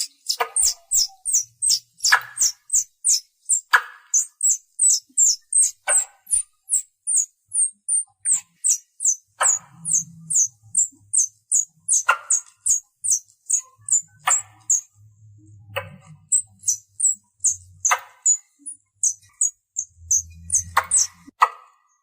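Squirrel calling: a rapid run of short, high, sharply falling chirps, about three a second, with a louder, lower-reaching chirp every couple of seconds. It is the kind of call used to draw other squirrels in.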